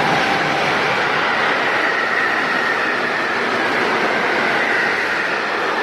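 Freight train of tank wagons running past close by at speed: a loud, steady rush of wheels on rail with a faint high ringing tone above it.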